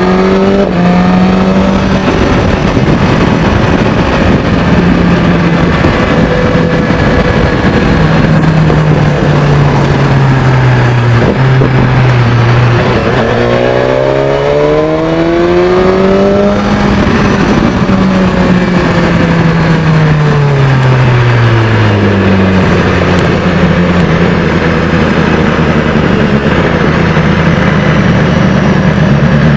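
BMW S1000XR's inline-four engine through a Termignoni aftermarket exhaust, running continuously with the throttle varied: the note climbs slowly about halfway through, falls back to a lower, steady pitch, and starts climbing again near the end.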